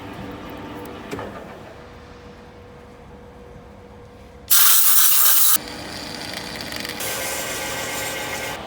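Lathe running with a steady hum, then a loud burst of compressed-air hiss lasting about a second midway through, like an air gun blowing chips off the turned steel pin. A second, quieter spell of hissing follows near the end.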